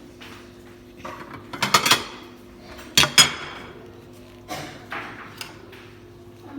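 Metal serving spoon clinking against dishes: a quick run of clinks a couple of seconds in, two sharp strikes about a second later, then a few lighter knocks.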